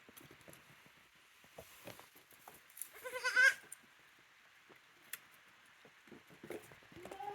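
A goat kid bleats once, a loud wavering call about three seconds in, among light scattered taps and knocks; another bleat begins right at the end.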